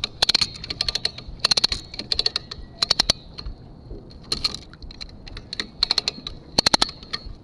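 Hand ratchet being cranked under load to pull a chain taut, giving short runs of sharp pawl clicks about every second, the line being tightened to pull a sunk boat upright.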